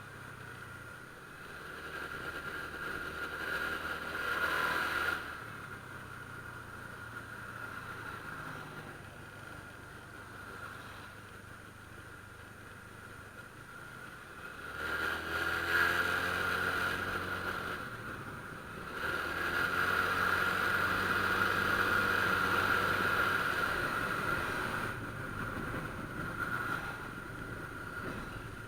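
Honda Click scooter's engine running on the move, rising in pitch as it accelerates about four seconds in and again about halfway through. The loudest stretch is in the second half.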